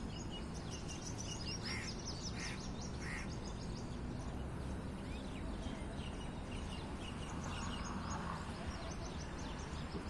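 Birds chirping in many quick, short high notes, with three short harsh calls in a row about two seconds in, over a steady low rumble.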